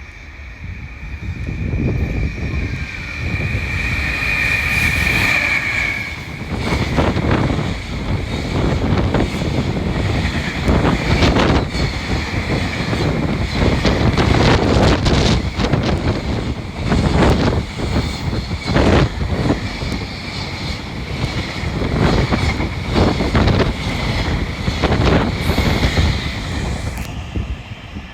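Freight train passing at speed: a long high steady tone for about the first six seconds, then the rumble of the wagons with repeated clacks of wheels over rail joints, which ends shortly before the end.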